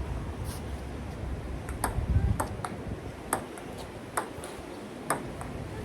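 Table tennis ball clicking back and forth off paddles and table in a rally, sharp pings about every half-second to second. Wind rumbles on the microphone in the first couple of seconds.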